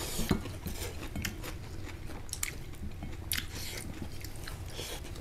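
A person biting and chewing food close to the microphone, with irregular short clicks from the mouth and food.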